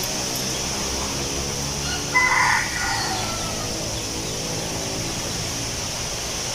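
A rooster crows once, loudly, a little over two seconds in, over a steady background of wind in the trees with a constant high hiss.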